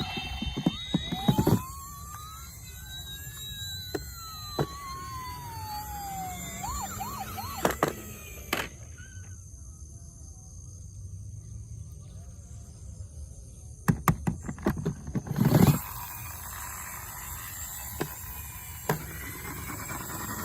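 A toy vehicle's electronic siren wailing, its pitch rising and then falling over a few seconds near the start, followed by scattered clicks and knocks and a loud cluster of knocks a bit past the middle.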